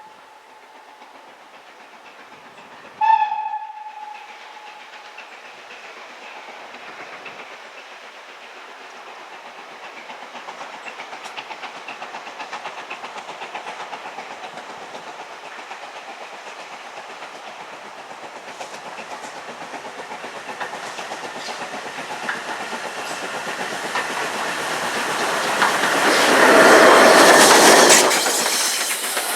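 A train whistle gives one short blast about three seconds in. Then a train approaches and passes close by, its wheels clattering over the rail joints, loudest near the end.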